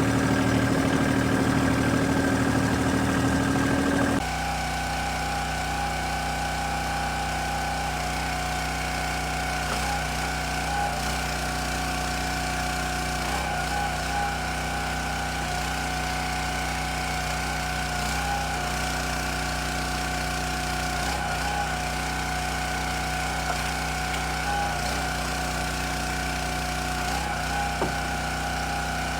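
A small engine running steadily. About four seconds in, its sound changes suddenly and it goes on quieter and evenly.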